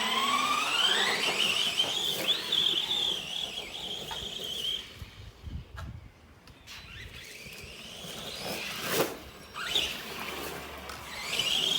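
Arrma Granite 3S RC truck's brushless motor whining, rising in pitch as the truck speeds up and holding high for a few seconds before fading. It winds up again twice later, with a few sharp knocks in between.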